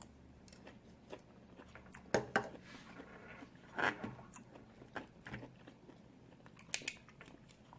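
A person chewing and biting food close to the microphone, with scattered short crunches and wet mouth clicks and quiet stretches between them.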